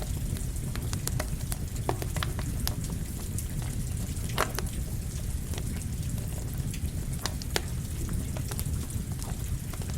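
Campfire crackling, with scattered sharp pops over a steady rush of rain; one louder pop comes about halfway through.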